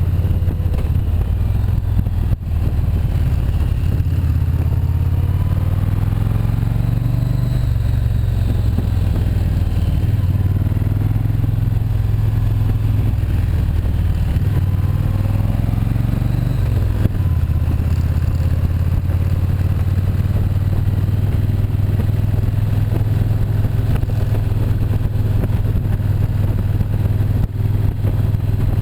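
Motorcycle engine running while riding, its pitch rising and falling with the throttle through the middle stretch, over a steady low rumble.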